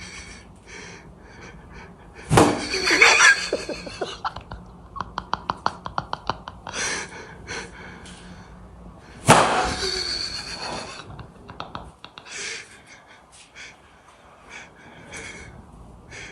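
A person's loud sudden gasps, about two seconds in and again near ten seconds. Between them come a quick run of short breathy pulses and scattered small clicks.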